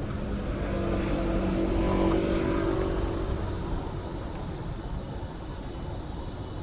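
A motor vehicle passes close by, its engine sound growing to a peak about two seconds in and then fading away, over a steady low rumble.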